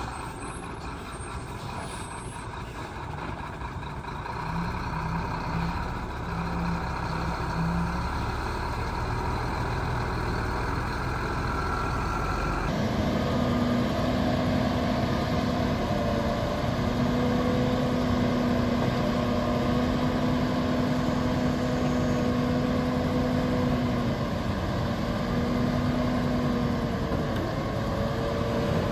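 Heavy diesel earthmoving machinery running, growing gradually louder. About 13 s in the sound changes abruptly to a steadier engine note with a strong held pitch.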